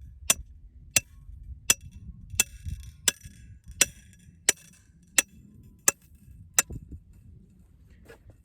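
Rebar fence post being pounded into the ground: sharp, ringing metal-on-metal strikes, about one every 0.7 s, ten in a row, then stopping, with a few fainter knocks near the end.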